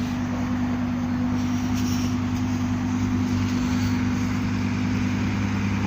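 Audi R8 engine idling steadily with a low, even drone that holds one pitch throughout.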